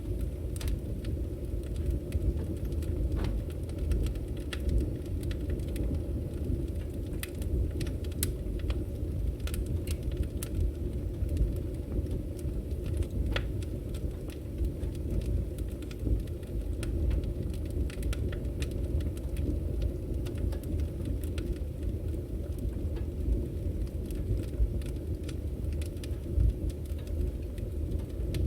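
Firewood burning, with a steady low rumble and irregular sharp crackles and pops from the burning logs.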